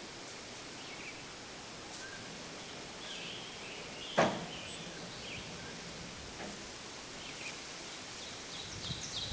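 Steady outdoor background hiss with a few faint bird chirps, broken by a single sharp knock about four seconds in.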